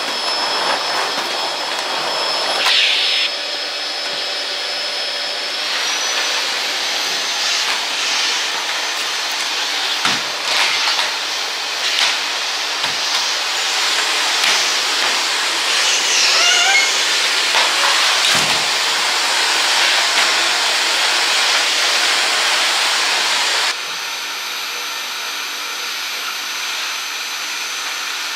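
A steady hissing whir of a running electric motor, with a few knocks and clatters over it; its level jumps abruptly twice.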